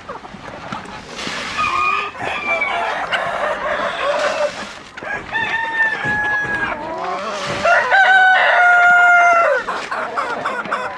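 Roosters crowing among a flock of chickens, with several drawn-out crows; the loudest and longest comes about eight seconds in, and hens cluck around them.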